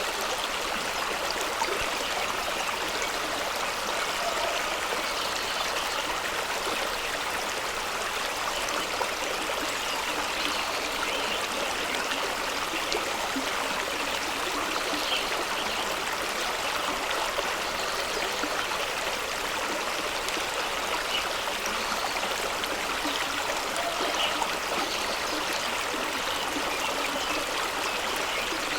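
Fast-flowing stream rushing and splashing over rocks, a steady full wash of water.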